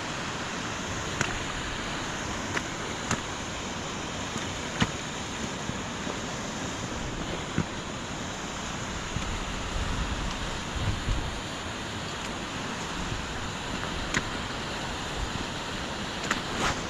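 Steady hiss of heavy rain and rushing runoff water, with a few sharp taps scattered through it and a low buffeting of wind on the microphone about ten seconds in.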